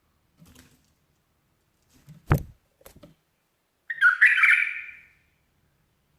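A bulbul gives one harsh, scratchy call lasting about a second, near the end. A little before it, a sharp knock sounds with a few fainter taps around it.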